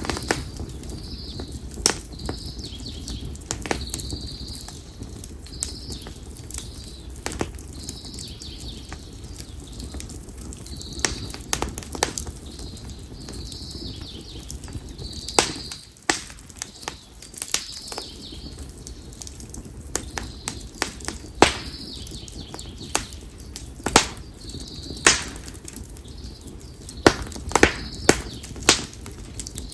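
Konara oak firewood burning in an open bonfire, crackling with sharp pops scattered throughout and coming thicker near the end, over a low steady rumble of the fire. A short high chirp repeats about once a second in the background.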